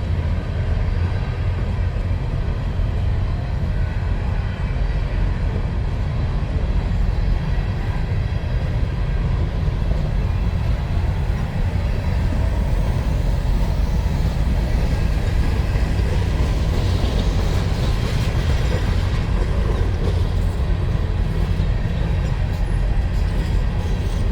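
Freight train of empty mine cars rolling past with a steady, heavy low rumble of wheels on rail. About 17 seconds in, a brief rise of higher-pitched rail noise comes in.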